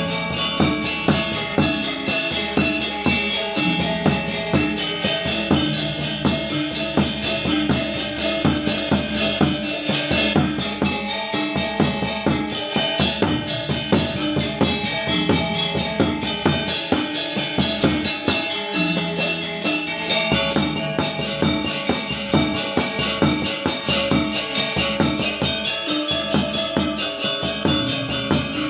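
Balinese gamelan gong ensemble playing: many bronze metallophone tones struck in rapid, continuous interlocking patterns.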